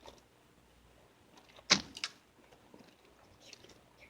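A single sharp knock about two seconds in, followed by a fainter click a moment later.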